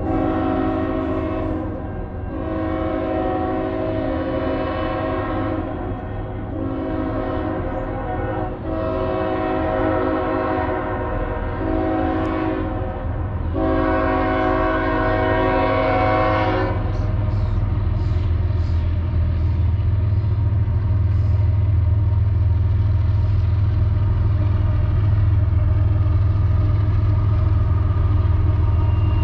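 Train horn sounding a series of blasts, mostly long with one short one near the middle, its several tones sounding together as a chord. After the last blast the train's low, steady rumble grows louder.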